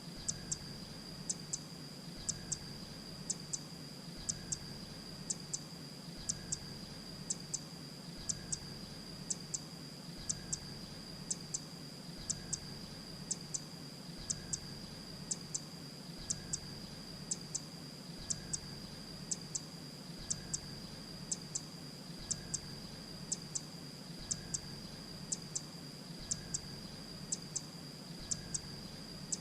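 Grey-breasted prinia calling: a sharp, very high double note repeated about once a second, over a steady high-pitched whine.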